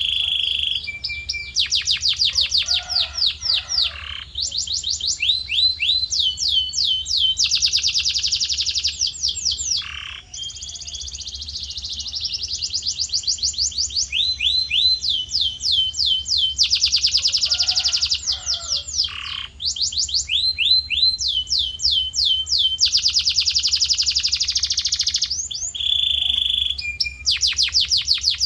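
Male canary singing a long, continuous song of rapid trills: each phrase repeats one quick downward-sweeping note many times for a second or two, then switches to a new phrase.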